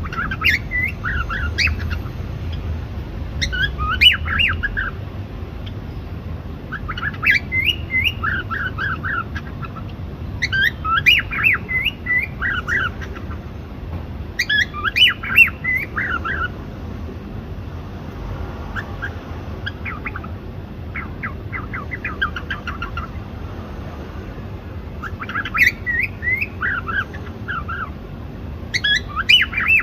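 Cockatiel chirping in short bursts of quick, squawky chirps, repeated every few seconds and fainter for a while around the middle, over a steady low hum.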